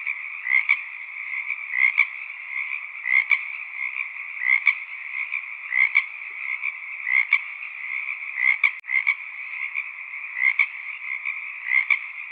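Frogs calling in chorus: a steady, dense trilling with a louder call repeating about every second and a half. The sound cuts out for a split second about nine seconds in.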